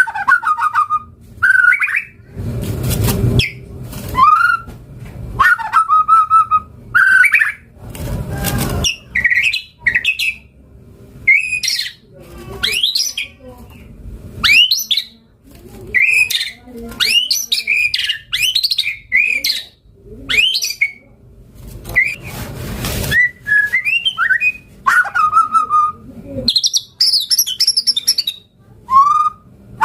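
White-rumped shama (murai batu) singing a long, varied song of short whistled phrases and rising and falling notes, broken by three harsh rasping notes.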